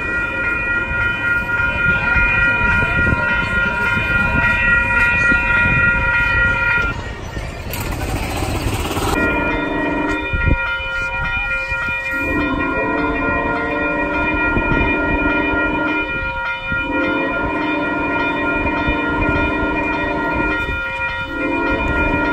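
Passing train with its horn sounding: a long, steady chord held for several seconds, then, after a short break, three blasts with the last one shorter, over the continuous rumble of the train.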